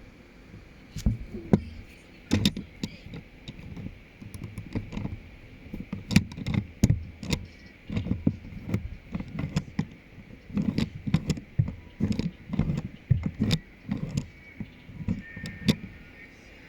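Hard plastic Lego pieces being handled, with irregular clicks, rattles and low knocks.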